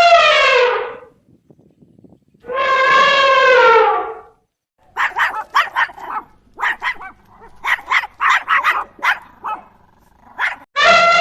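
A dog howling, two long calls that fall in pitch at the end, then a quick run of short barks and yelps, and another long howl starting near the end.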